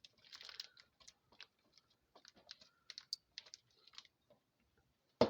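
Old cheddar being grated by hand over a loaf of bread dough: quiet, irregular short scrapes and light clicks, with a sharp knock just before the end.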